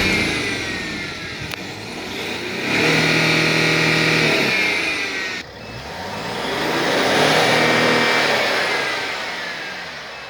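A diesel SUV engine is revved up and held at speed twice, then falls back each time. There is an abrupt break between the two revs.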